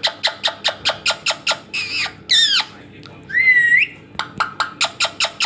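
Ringneck parrot calling: quick runs of sharp clicking chirps, broken by a loud falling squawk about two seconds in and a rising whistled call about a second later.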